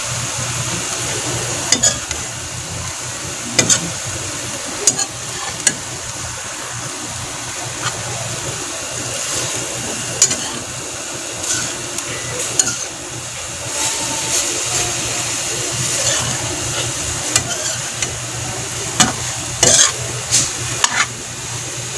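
Ground pork with diced carrots and onion sizzling in a wok, stirred with a slotted metal spoon that scrapes and clinks sharply against the pan at irregular moments.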